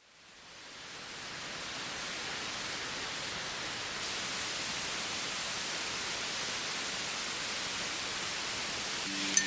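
A steady, even hiss that fades in over the first second or two and then holds level, strongest in the upper range.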